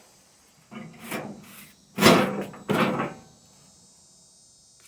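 Several knocks and clunks on the pressed-steel body of a Doepke Super Yardbird ride-on train as it is handled, each with a short ringing decay. The loudest comes about two seconds in, then a last clunk, and the sound stops about three seconds in.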